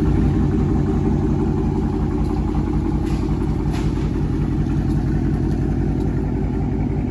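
2022 Dodge Charger R/T's 5.7-litre HEMI V8 idling steadily through a straight-through exhaust with the mid-mufflers deleted, giving a deep, choppy idle.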